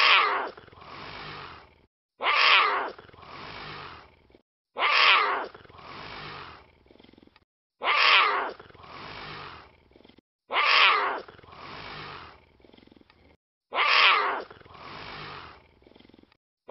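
A big cat roaring: the same roar repeated six times at even spacing, about every two and a half to three seconds, each a loud burst followed by a quieter, drawn-out tail.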